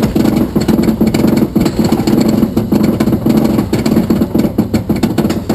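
A motor running steadily with a fast, even throb, typical of ride machinery.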